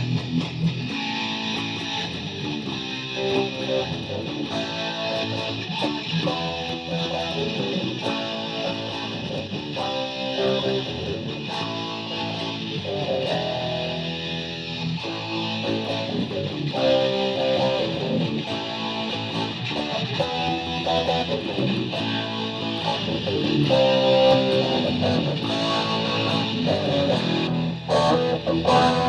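High school string orchestra playing a piece, with notes changing about once a second; the music grows louder near the end.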